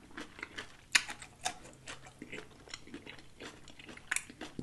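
A man chewing a mouthful of food with his mouth closed: soft wet mouth clicks and smacks, scattered and uneven, with one sharper click about a second in.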